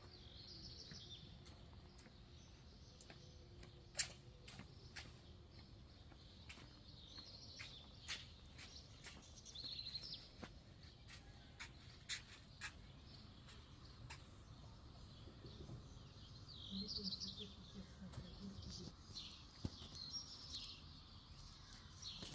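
Small birds chirping and singing faintly in short scattered phrases, with a few sharp clicks, the loudest about four seconds in.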